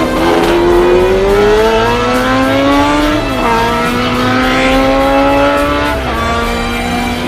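Car engine accelerating hard, its pitch climbing steadily and dropping at two upshifts, about three seconds in and about six seconds in.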